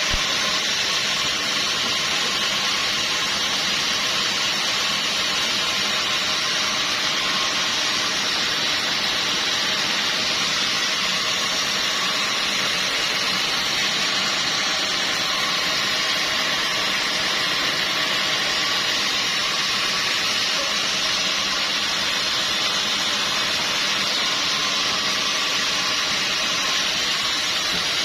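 Sawmill machinery running steadily: a constant hiss with faint steady tones underneath, unchanging throughout.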